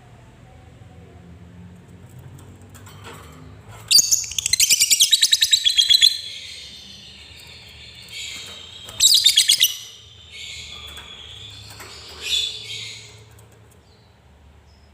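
Lovebird's shrill chattering trill (the 'ngekek' song): after a few quiet seconds, a loud burst of rapid notes at about ten a second lasts roughly two seconds, then a shorter burst, then softer scattered calls.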